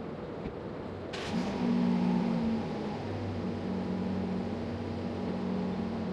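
Steady low rumble of background noise. About a second in, a brief sharp noise is followed by a low, steady motor-like hum that carries on to the end.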